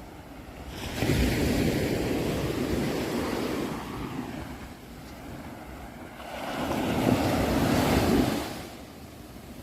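Sea waves breaking and washing in, twice: one surge about a second in and another past the middle, each a few seconds long, with quieter lulls between them.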